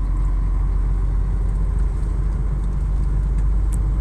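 Steady low rumble of a truck's engine and the road, heard inside the cab while driving.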